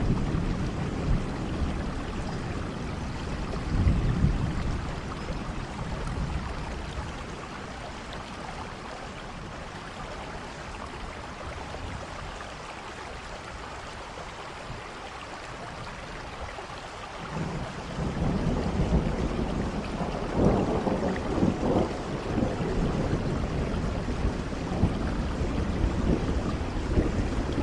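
Steady rainfall with deep, uneven rumbling underneath. It eases off through the middle and swells back up, heavier and more gusty, about two-thirds of the way in.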